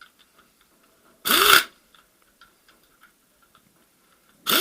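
A dog barking twice, short loud barks about three seconds apart.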